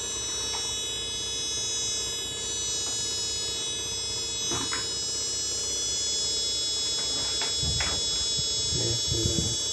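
Chinese TV's switch-mode power supply whining steadily with a high, siren-like tone, with a few light clicks over it. The squeal is the sign of the faulty regulator that puts out only about 7 V on the B+ line.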